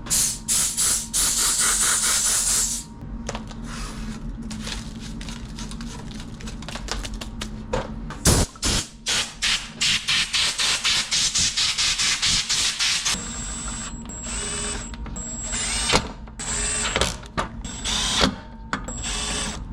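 Vacuum cleaner running with a steady hum while its nozzle is worked over a surface, the suction hiss surging and dropping several times a second, with a high whistle in the later seconds.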